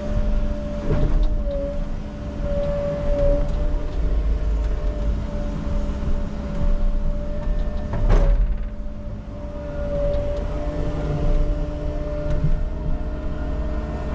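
Heavy digging machine's engine running with a steady hydraulic whine, with a knock about a second in and a louder knock about eight seconds in as the bucket works the bank.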